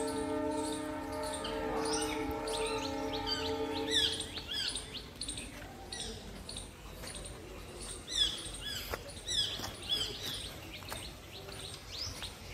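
Birds chirping in the trees, many short rising and falling notes, most of them after about four seconds in. Before that a steady held chord of several tones sounds and cuts off about four seconds in.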